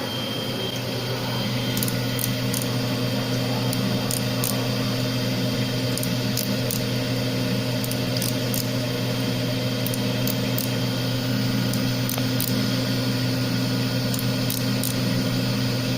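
Small CNC cylindrical grinder (GD-01) running: a steady hum with a low tone from the grinding-wheel spindle, with faint irregular high ticks. It gets a little louder about two seconds in.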